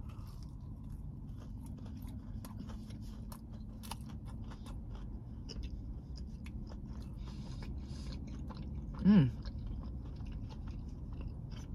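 Close chewing of a crispy fried chicken strip, with scattered crunches and wet mouth clicks over a steady low background rumble. About nine seconds in there is a short hum from the eater that falls in pitch.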